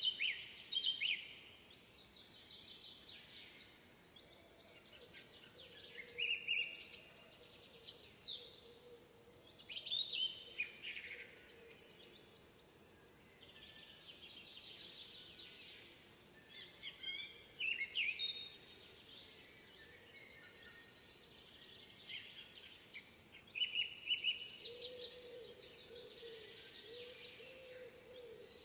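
Several songbirds singing in a spring woodland: repeated short chirps, trills and sweeping whistles, in phrases every second or two.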